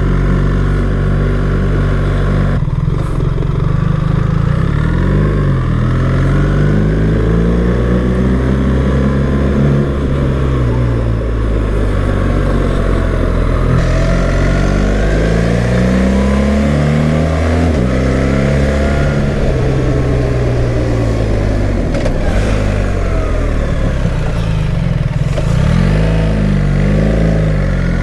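BMW R 1300 GS's boxer-twin engine pulling hard, its pitch rising as it accelerates and dropping back at gear changes several times, over steady wind noise.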